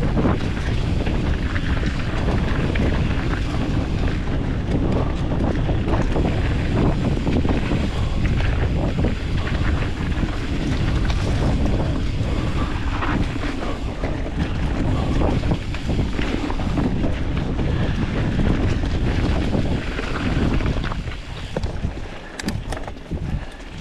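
Wind buffeting the microphone during a fast mountain bike descent, mixed with tyre and trail noise from the bike rolling over dirt. The noise is steady and loud, then dies down near the end.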